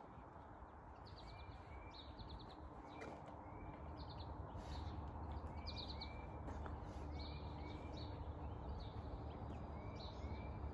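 Songbirds calling outdoors: repeated short chirps, often in pairs, and quick trills, over a steady low background rumble.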